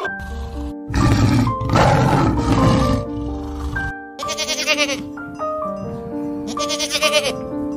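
Background music with steady held notes, with a goat bleating over it near the end.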